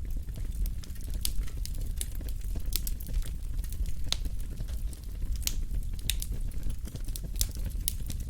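Wood fire burning in a fireplace: a steady low rumble of flame with sharp, irregular crackles and pops.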